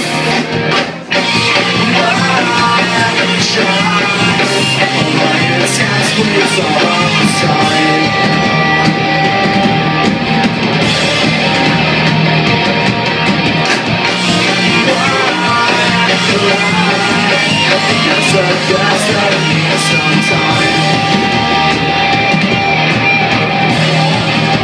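Guitar-led rock music: an instrumental passage of the song, with no lyrics recognised.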